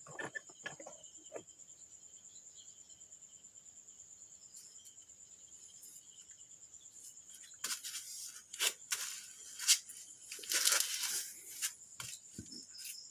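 A steady high chirring of crickets, with a few clicks early on and then, from about eight seconds in, a run of loud rustling, scraping and clicking as parts are handled.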